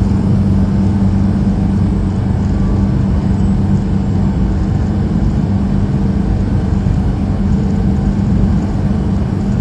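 Truck running at a steady speed: a constant low engine and road drone with a deep steady hum, no change in pitch.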